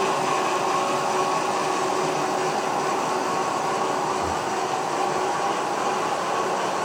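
H0-scale model train running on the layout's track: a steady whir with a few held tones from the running gear, unchanging throughout.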